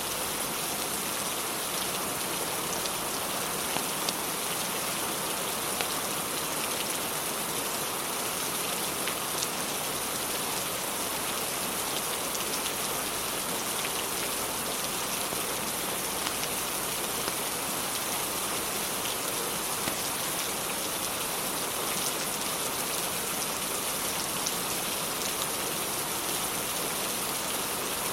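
Steady rain falling without a break, with a few faint clicks and pops scattered through it.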